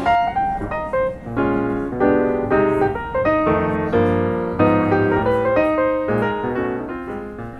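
Background piano music: a gentle melody over chords, fading out near the end.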